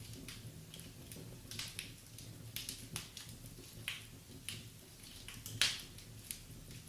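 Wood fire crackling in a fireplace: irregular snaps and pops, one louder pop about two-thirds of the way in, over a faint low steady hum.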